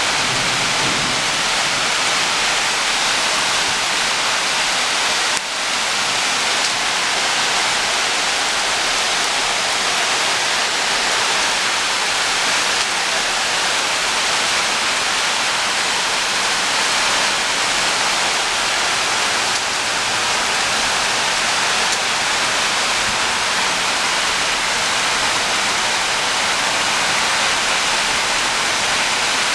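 Heavy rain pouring down in a steady, loud hiss, dipping briefly about five seconds in.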